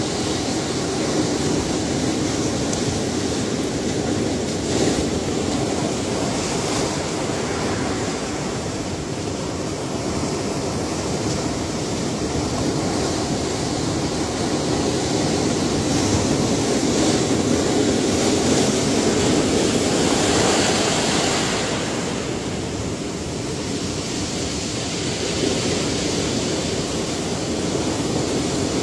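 Ocean surf: a continuous rush of waves breaking and washing in, swelling louder about two-thirds of the way through and then easing off.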